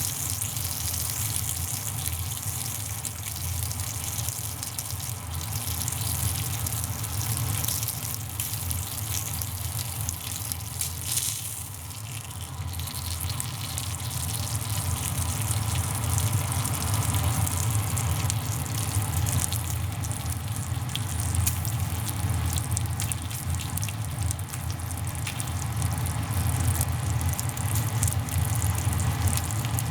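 Steady sizzling and fine crackling of a small wood fire with pork belly grilling over it, over a low rumble, easing briefly about halfway through.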